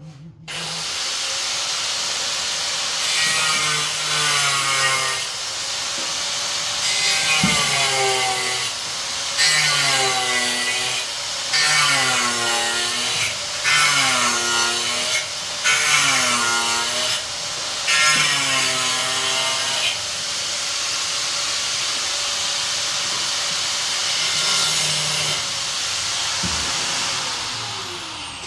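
Electric power tool cutting, its motor pitch dipping under load and recovering in a series of repeated passes, then running freely and spinning down near the end.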